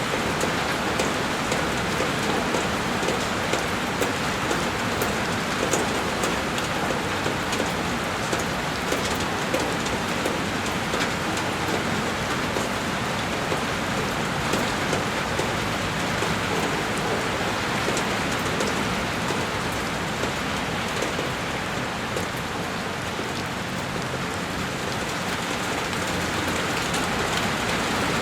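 Heavy rain falling steadily and densely on a window glass, an even rush of water sound with fine tapping drops.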